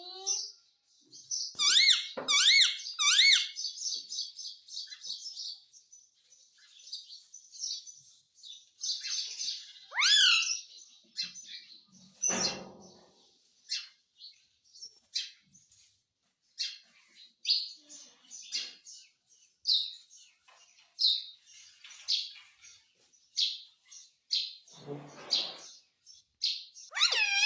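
Indian ringneck parrot chirping and calling in short, high, sliding notes, with a burst of dense chattering in the first few seconds and then scattered single chirps about once a second. Two duller, noisier sounds come about a third of the way in and near the end.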